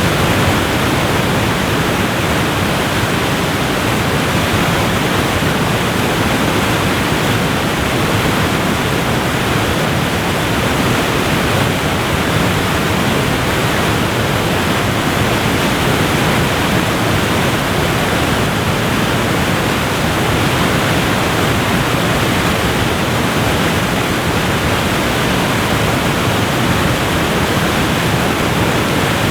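Waterfall: a loud, steady rush of falling water that does not change in level.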